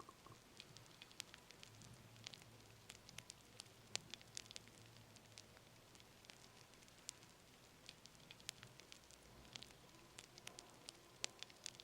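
Fire crackling faintly: irregular small pops and snaps over a soft hiss, with sharper snaps about four seconds in and again near the end.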